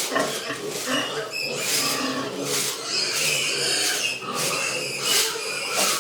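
Pigs grunting and squealing, with loud high-pitched calls coming over and over, about one a second.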